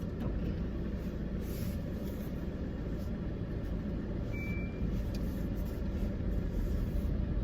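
Car driving, a steady rumble of road and engine noise heard inside the cabin, with one brief high beep about four and a half seconds in.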